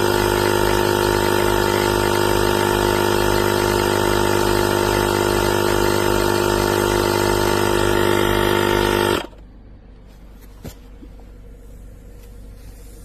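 Inzeetor 12V portable tire inflator's air compressor running steadily with a loud mechanical hum and a fast pulsing beat, then stopping suddenly about nine seconds in. A single faint click follows in the quiet.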